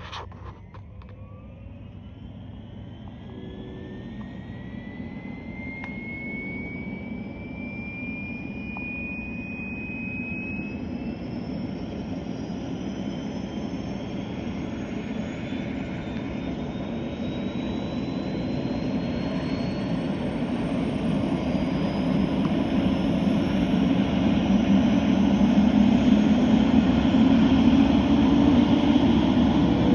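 Airbus H125 helicopter's single turboshaft engine starting up: a whine rises steadily in pitch as the turbine spools up, over a low rumble from the rotor that grows as the whole sound gets steadily louder.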